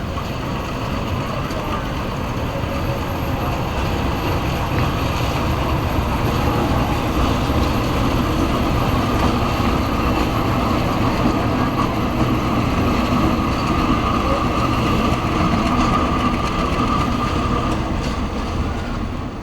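Train running with a steady, dense rumble that grows slightly louder, a steady whine running through it in the later part.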